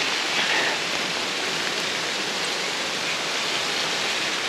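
Waterfall rushing close by: a steady hiss of falling water that does not change.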